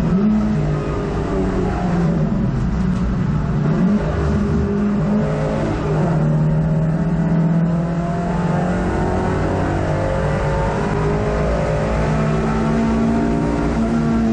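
Hot hatch race car's engine heard from inside the cabin under racing load, its revs climbing and dropping several times as it changes gear and lifts.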